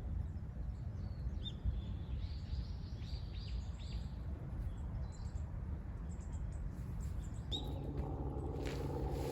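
Small wild birds chirping in short, repeated calls over a low, steady outdoor rumble. A coarse, steady noise starts up near the end.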